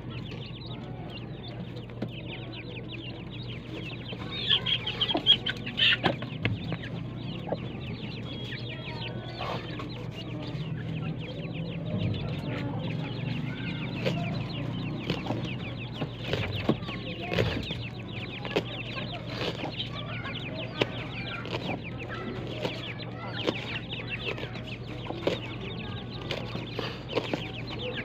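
Chickens clucking and chirping with many short, rapid calls, busiest about four to six seconds in, over a steady low hum.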